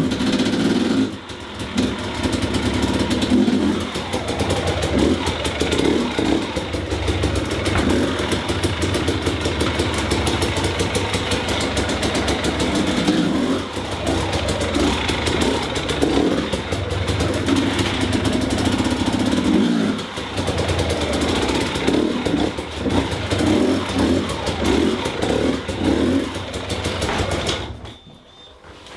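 Dirt bike engine running, revved in repeated short throttle blips, then shut off about a second before the end.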